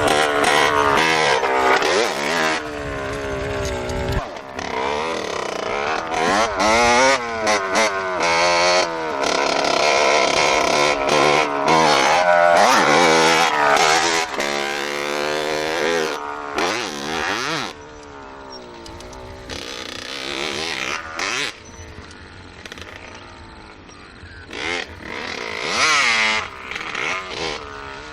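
Small motorbike engine revving up and down over and over, its pitch rising and falling, somewhat quieter after about two-thirds of the way through.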